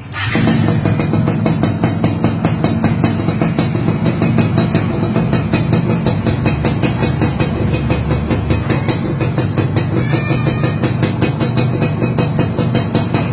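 Yamaha F1ZR two-stroke single-cylinder engine idling steadily through its exhaust, making a rapid, even crackle of exhaust pulses.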